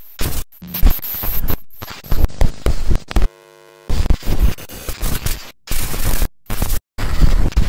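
Harsh electronic static and glitch noise in choppy bursts that cut in and out abruptly, with a brief quieter buzz a little past three seconds in.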